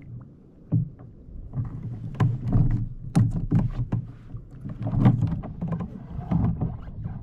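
Water slapping against a fishing kayak's hull, heard as a run of irregular knocks and splashes.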